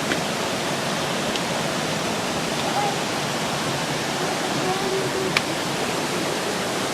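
Steady rush of flowing water, such as a stream or small waterfall, with a single sharp click about five and a half seconds in.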